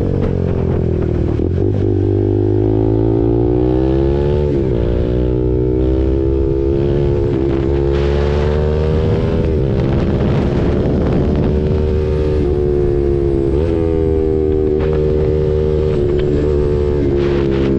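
KTM RC 390's single-cylinder engine through an SC Project aftermarket exhaust, running under way. Its pitch drops early on, climbs over the next few seconds, then holds fairly steady with brief dips about four seconds in, around twelve to fourteen seconds in and near the end. Wind rumble on the microphone runs underneath.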